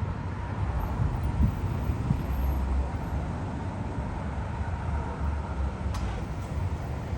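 Road traffic: a steady low rumble of passing vehicles, with a brief click about six seconds in.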